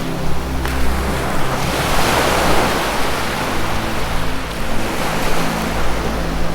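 Ocean surf washing in, with a wave swelling about two seconds in, over a soft sustained low music drone.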